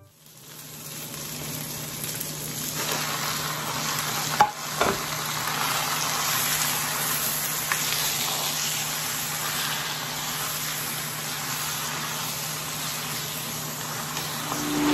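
Sliced onions and squid sizzling in a hot wok while being stirred with a spatula; the sizzle builds over the first few seconds and then holds steady. A sharp clack or two sounds about four and a half seconds in.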